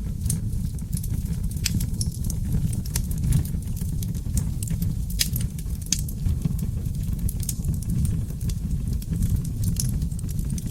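Wood fire burning in a fireplace: a steady low rumble of flames with sharp crackles and pops scattered irregularly, several a second.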